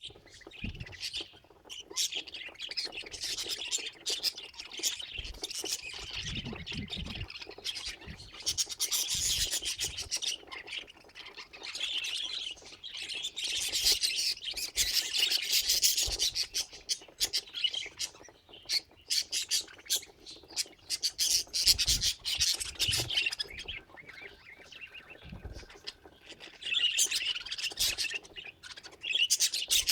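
Budgies chattering, with a continuous stream of chirps, squawks and warbling.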